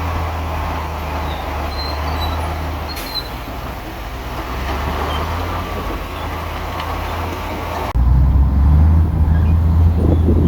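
Heavy diesel earthmoving machinery running steadily under load. About eight seconds in the sound changes abruptly to a louder, deeper engine drone.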